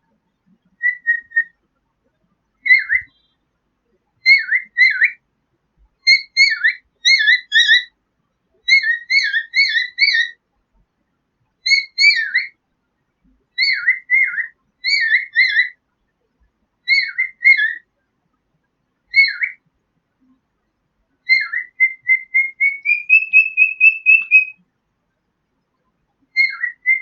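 Parrot whistling short clear calls in clusters of one to three notes, one cluster every second or two. Near the end comes a longer run of notes that climbs in pitch.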